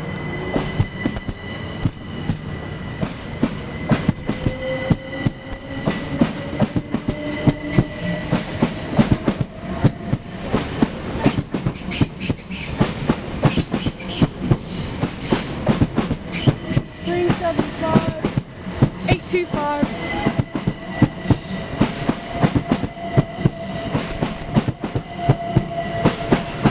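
Class 375 Electrostar electric multiple unit moving through the station, its wheels clattering steadily over rail joints and points. A traction motor whine rises in pitch over the first several seconds and then holds steady.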